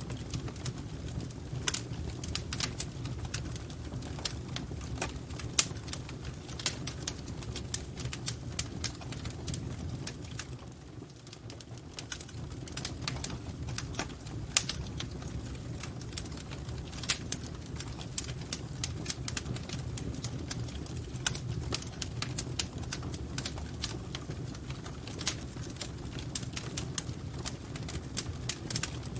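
Fire crackling in a fireplace: irregular clicks and pops over a steady low rumble of the flames, dipping briefly about eleven seconds in.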